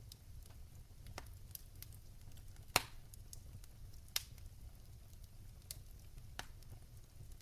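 Fire in a fireplace crackling over a steady low rumble, with scattered snaps and a sharp pop nearly three seconds in and another about four seconds in.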